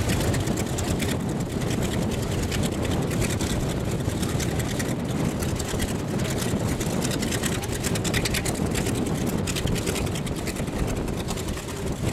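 Douglas DC-3's radial piston engines running with a steady, loud rumble.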